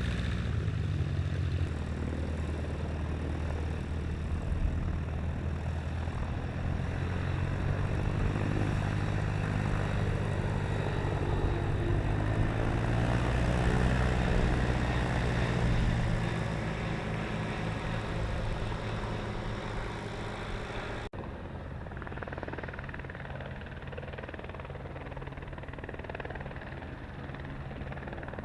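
Light aircraft engine and propeller running steadily, growing louder to a peak about halfway through and then fading as it passes. About three-quarters of the way through the sound cuts abruptly to a quieter, duller engine sound.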